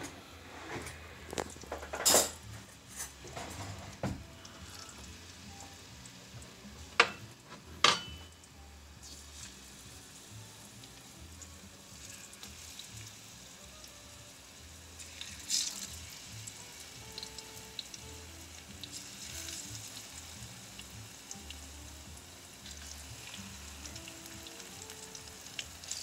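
Plantain slices frying in hot oil in a frying pan: steady sizzling and crackling, with a few sharp knocks in the first eight seconds.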